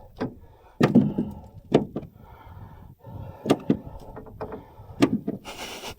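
Fishing tackle being handled while re-rigging: a string of separate knocks and clunks, about six over several seconds, with a short hiss near the end.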